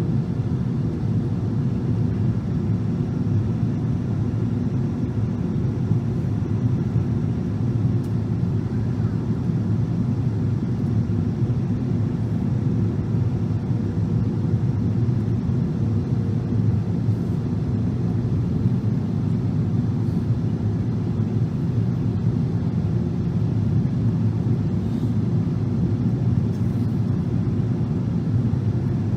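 Steady low cabin rumble of a Boeing 777-300 airliner on final approach: engine and airflow noise heard from inside the passenger cabin, with a faint steady hum that fades out about halfway through.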